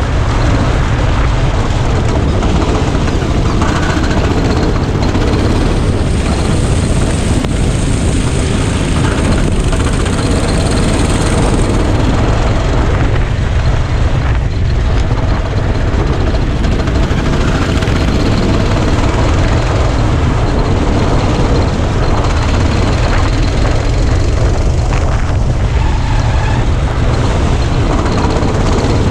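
Go-kart engine running under load, loud and steady, mixed with heavy wind rumble on an onboard GoPro microphone.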